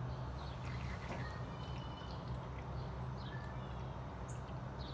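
Birds chirping now and then in short calls over a steady low hum.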